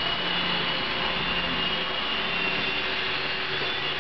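Esky tandem-rotor mini RC helicopter's electric motors and twin rotors running steadily in flight: an even whir with a steady high-pitched whine.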